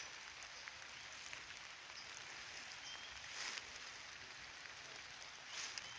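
Light rain falling steadily, a faint even hiss, with two brief louder swells about three and a half and five and a half seconds in.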